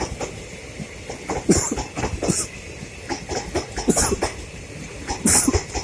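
Passenger coaches of a departing express train rolling past, their wheels clattering irregularly over the rail joints, with a few short, sharp hissing bursts in between.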